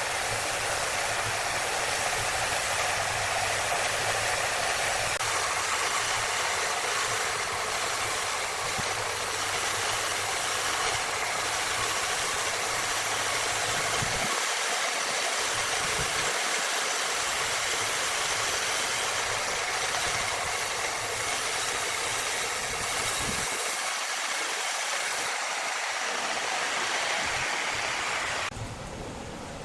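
Large sawmill wood saw running, a loud, steady mechanical noise with a low motor hum underneath that drops out briefly twice. The noise falls away near the end.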